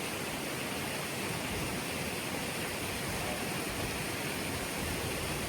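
Steady rushing roar of Watson Falls, water pouring down onto rocks.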